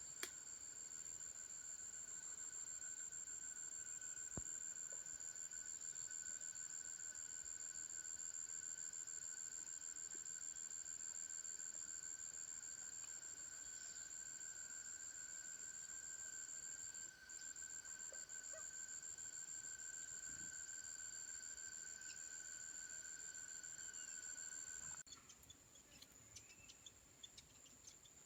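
Faint, steady high-pitched insect drone that cuts off abruptly about 25 seconds in, leaving scattered faint chirps.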